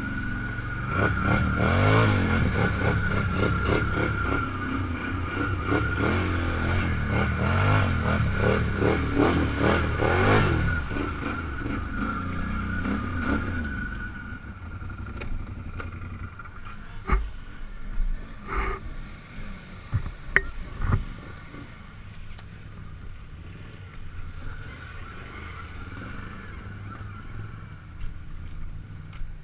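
Off-road vehicle engine revving up and down under load for about the first half, then dropping back to a quieter run. Several sharp knocks and clunks sound a few seconds after it quietens.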